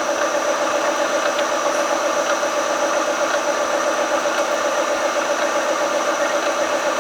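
Tree vertical milling machine running in low gear, a 3/8-inch drill bit boring a pilot hole into a very hard crankshaft. A steady mechanical drone with a fast, even pulsing.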